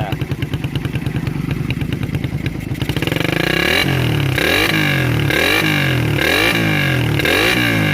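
Suzuki Satria FU's single-cylinder four-stroke engine through its modified stock exhaust: idling steadily, then about three seconds in the throttle is blipped repeatedly, the exhaust note rising and falling about five times in quick succession.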